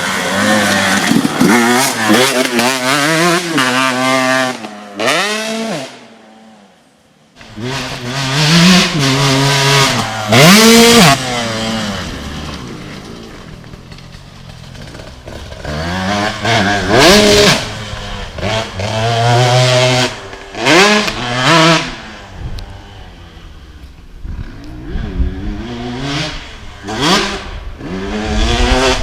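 KTM SX 125 two-stroke motocross engine revving up and falling off again and again as the bike is ridden around a track. The sound drops away almost to nothing for about a second, six seconds in, then climbs again.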